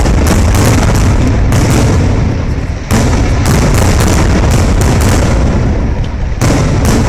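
Fireworks display: a rapid, continuous barrage of aerial shells going off, deep booms several times a second overlapping with sharper cracks.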